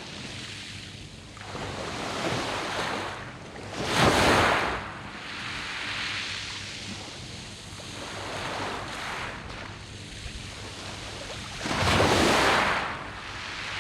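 Sea waves breaking and washing over a round-pebble beach, coming in as a series of swells; two larger waves break about four seconds in and near the end.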